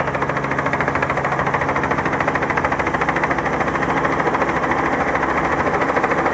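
Helicopter running overhead, its rotor blades beating in a rapid, even pulse over a steady engine drone.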